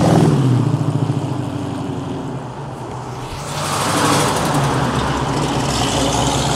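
Car engines going by: one engine's sound fades away over the first two seconds or so, then another vehicle grows louder from about three and a half seconds in.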